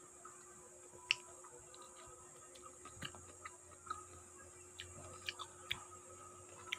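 Ripe pineapple being chewed close to the microphone: faint chewing with scattered mouth clicks, one sharper click about a second in.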